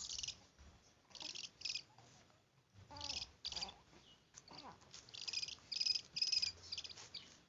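Owl giving short, raspy hissing calls, about nine of them in irregular bursts.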